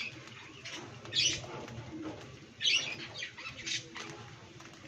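Cockatiels chirping: two loud, sharp calls, about a second in and near three seconds, with softer chirps in between and after.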